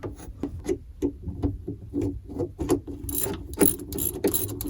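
Ratchet wrench clicking as a cable-retaining bolt on a rotary steering helm is run in and tightened: a run of irregular clicks that come faster from about three seconds in.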